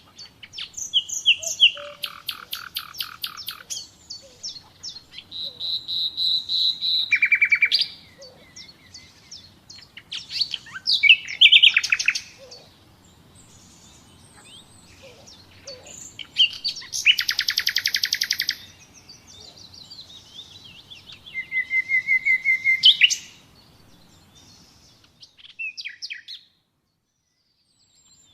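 Common nightingale singing: varied phrases of fast repeated notes and pure whistled notes, broken by short pauses. The song stops about two seconds before the end.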